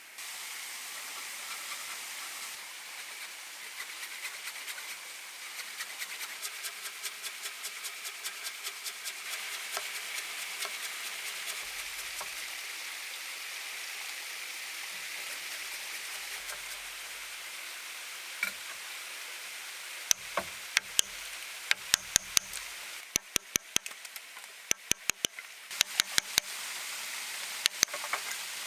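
Steady hiss with a run of quick light ticks, then sharp knocks in quick bunches during the second half.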